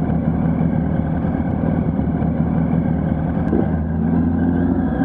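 Yamaha R1's inline-four engine running steadily under the rider, its note shifting slightly near the end.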